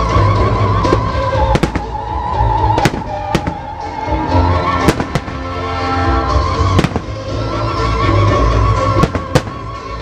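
Aerial fireworks going off in sharp single bangs, roughly one every second, some in quick pairs, over musical melodies played with held notes.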